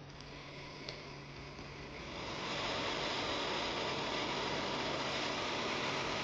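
A steady rushing hiss, like air blowing, that swells about two seconds in and then holds level, over a faint steady hum, with a single click near the start.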